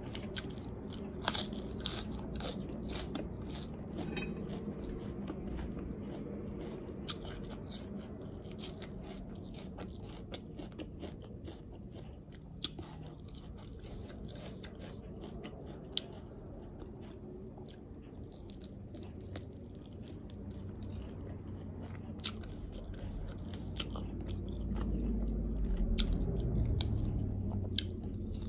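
Close-up eating sounds: biting and chewing with frequent sharp, wet mouth clicks, as sauced Korean fried chicken wings and lettuce are eaten. The chewing grows louder near the end as a wing is bitten into.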